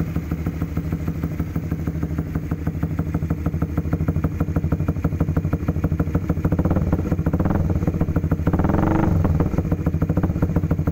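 An engine running with an even pulsing beat, revved up briefly about eight to nine seconds in, then settling back.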